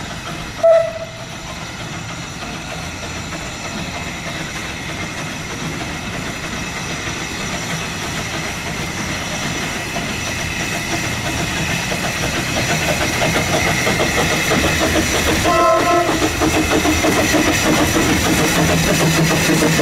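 A 2-foot narrow-gauge train, a steam locomotive with a Planet diesel helper, running and growing steadily louder as it approaches. There is a short horn toot about a second in and another about three-quarters of the way through.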